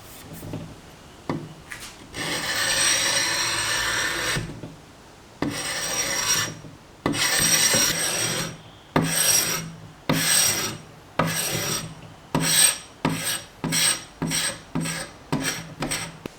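Hand scraper blade dragged along wooden table legs, stripping the old finish. A few light knocks come first, then long scraping strokes that grow shorter and quicker, about two a second near the end.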